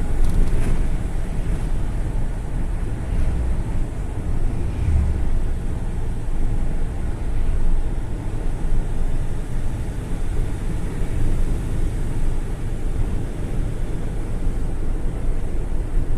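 Steady low rumble of a vehicle driving along a highway: engine, tyre and wind noise with no distinct events.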